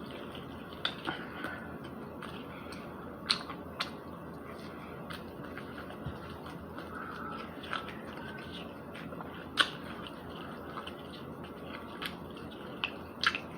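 A person chewing spicy chicken nuggets: scattered short mouth clicks and smacks at irregular intervals over a steady low hiss.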